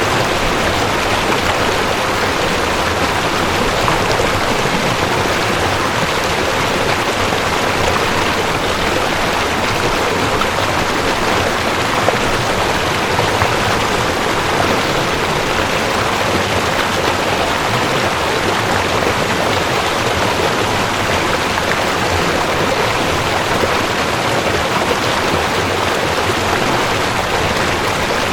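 Mountain stream rushing over rocks: a steady, full wash of flowing water.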